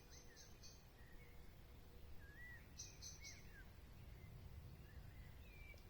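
Faint forest ambience: an insect chirping in short runs of three or four quick high pulses, once at the start and again about three seconds in, with scattered short whistled bird calls that glide up and down, over a low rumble.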